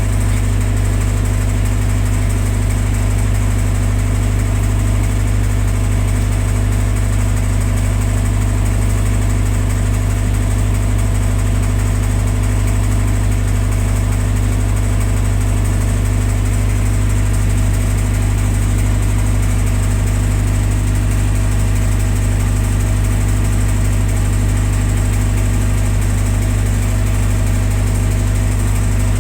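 Generator set engine running steadily at a constant speed, a loud, even drone.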